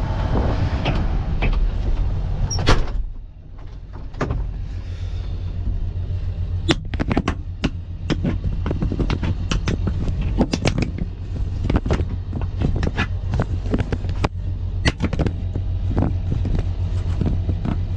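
Wind buffeting the microphone over a farm machine's engine running steadily. About three seconds in a knock comes and the wind noise drops away; after that the engine runs on under frequent sharp clicks and rattles.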